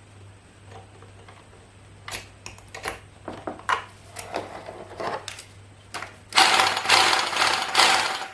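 A few clicks and knocks as the rotary hammer drill is handled, then about six seconds in the 1600 W Wondercut rotary hammer drill starts running free with its hammer action going, loud and rattling, and stops just before the end.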